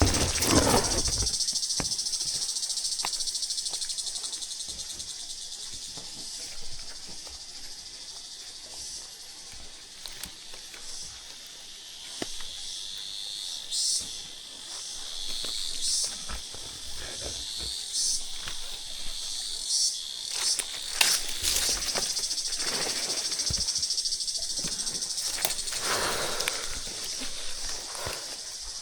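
A steady, high, shrill chorus of insects, with short rustling and knocking handling noises here and there.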